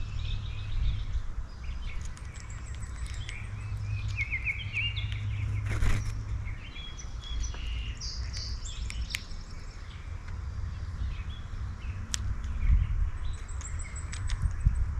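Several small songbirds chirping and trilling in quick short calls at a bird feeder, with a few sharp clicks, the loudest about halfway through. A steady low rumble runs underneath.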